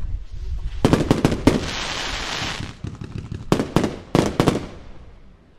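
Consumer firework battery shots: a quick run of bangs about a second in, followed by a hiss of burning gold glitter stars. A second run of bangs comes about three and a half seconds in and fades out.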